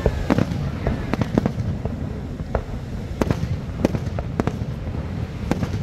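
Aerial fireworks shells bursting: an irregular series of a dozen or so sharp bangs over a few seconds, over a constant low rumble.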